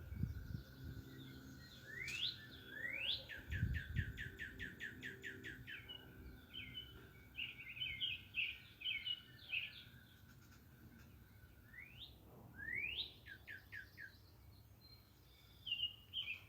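Backyard songbirds singing. One bird twice delivers a rapid run of falling notes, about two seconds in and again around twelve seconds, among scattered chirps from others, over a thin steady high tone.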